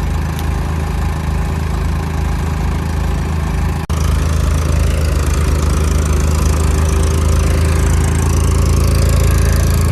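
Tractor diesel engine running steadily. A momentary break about four seconds in, after which the engine is slightly louder.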